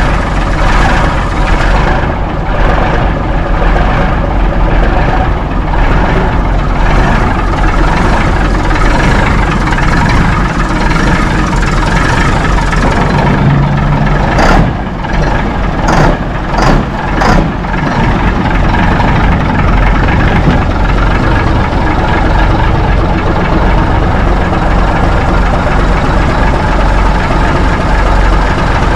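Old Mack B-model truck engine running at a steady idle after a cold start, with a cluster of short sharp sounds about halfway through. Onlookers doubt it is a Mack Thermodyne diesel, which they describe as sounding lazy.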